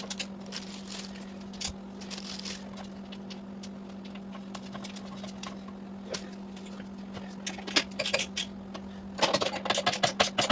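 Scattered metallic clicks and clinks of bolts, washers and hand tools being worked on a motorcycle's rear shock mount, over a steady low hum. Near the end the clicks come thick and fast.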